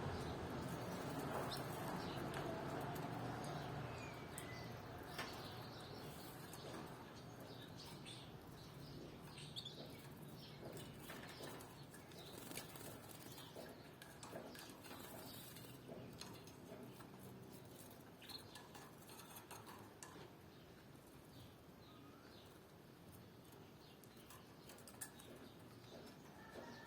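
Canaries moving about, with wings fluttering, many small clicks and taps, and a few brief chirps. It is a little louder in the first few seconds.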